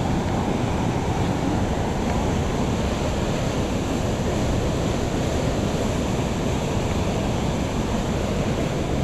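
Steady rush of river rapids below a waterfall, an even roar of churning water with no breaks.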